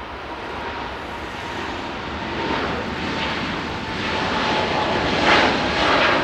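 Jet airliner's engines, a steady rushing noise that grows louder as the aircraft approaches.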